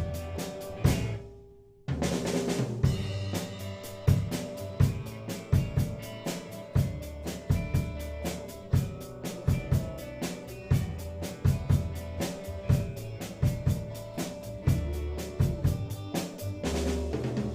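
A band playing a song, with drum kit (bass drum and snare) driving a steady beat under sustained pitched instruments. The music cuts out briefly about a second in, then the full band comes back in together on a hard hit.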